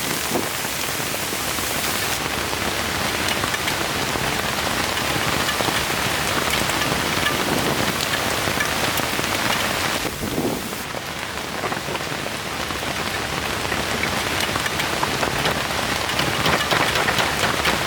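Heavy rain falling steadily, a dense continuous hiss of drops; the top of the hiss thins a little about eleven seconds in.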